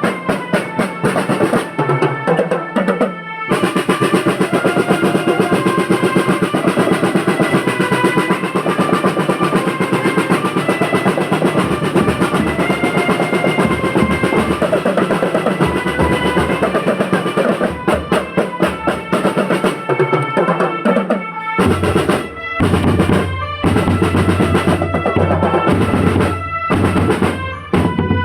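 School marching drum band playing: snare drums in fast rolls with bass drums, under a melody line from the band's melodic instruments. In the last third the band goes into a stop-start passage of heavy bass-drum beats broken by short gaps.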